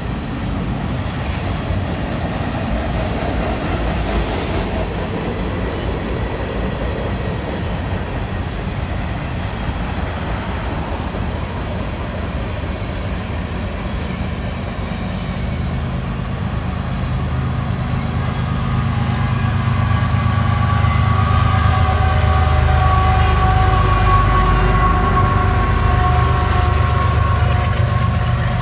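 Train passing on the rails: a continuous rumble that grows louder in the second half, where several steady high tones join it.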